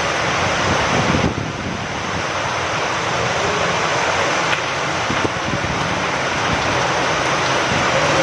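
Steady rain falling with wind blowing through it, a continuous even hiss that eases briefly about a second in.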